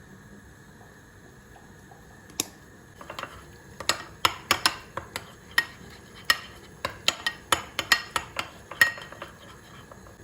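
Hard kitchen items clinking and knocking as they are handled: a single sharp knock, then a quick irregular run of about twenty clinks that stops shortly before the end.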